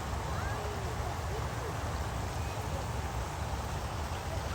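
Outdoor background: a steady low rumble with faint, distant voices.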